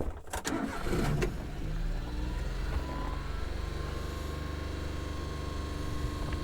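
A few clicks and knocks, then the 1993 Suzuki mini truck's small three-cylinder engine starts about a second in and settles into a steady idle.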